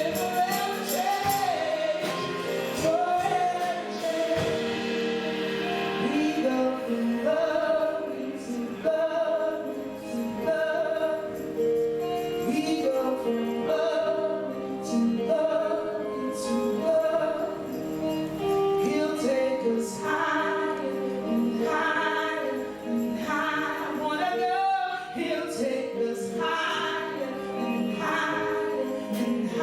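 Gospel worship music: singers carrying a melody over sustained accompaniment, without a break.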